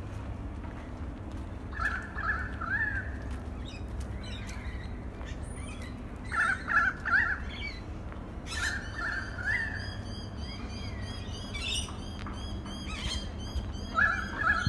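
Birds calling: one bird gives groups of three or four quick rising notes, four times, with fainter high chirps from other birds between them. A steady low hum runs underneath.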